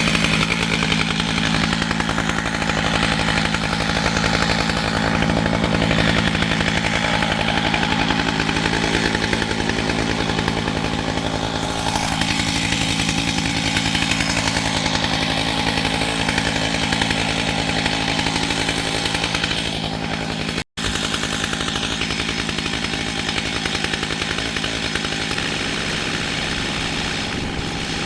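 Chainsaw running steadily under load, cutting lengthwise through a red oak log on a chainsaw mill.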